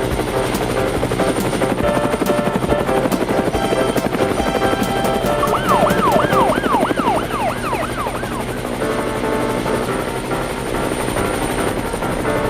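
Cartoon helicopter rotor chopping steadily over background music. A fast rising-and-falling wail sounds for about three seconds in the middle.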